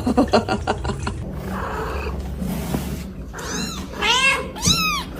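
Cat sounds: a quick run of pulsed sounds, then a hiss, then three high meows that each rise and fall.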